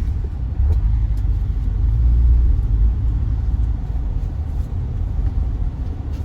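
A steady, loud low rumble, strongest in the deep bass, with a few faint clicks over it.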